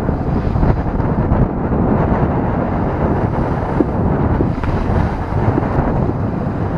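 Wind buffeting the microphone on a sailboat beating close-hauled into about 15 knots of wind, over a steady rush of sea and waves along the hull.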